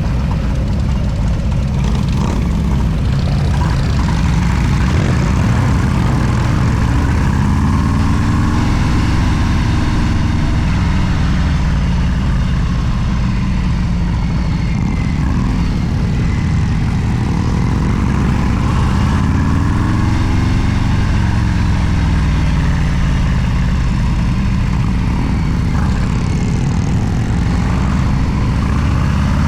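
Large motorcycle engine running steadily and loudly. Its pitch rises and falls three times, as with throttle or speed changes.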